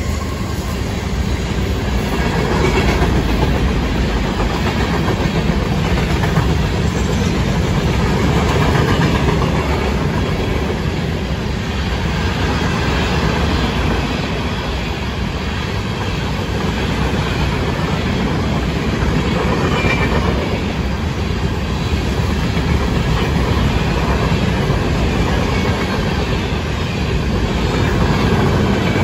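Florida East Coast Railway freight train passing close by: steady, loud rolling of steel wheels on the rails as freight cars and intermodal containers go by.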